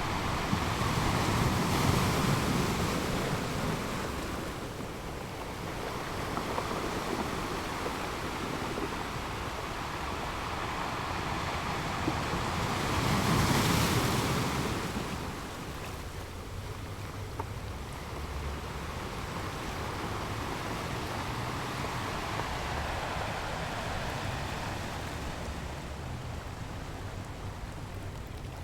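Ocean surf washing onto a sandy beach: a steady rush of waves, swelling as waves break, most strongly about a third of the way in, then settling back. Wind buffets the microphone.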